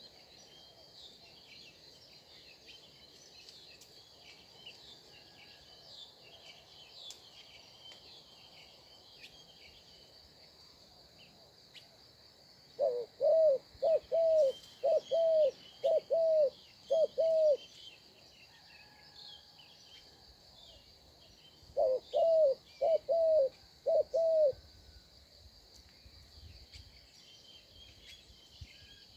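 A steady, high insect drone under scattered small-bird chirping. Twice, a bird gives a loud run of evenly spaced, low hooting notes: six in the first run, about midway through, and five in the second, a few seconds later.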